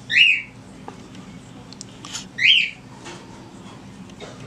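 Pet bird calling twice, two short chirping notes about two seconds apart, over a faint steady low hum.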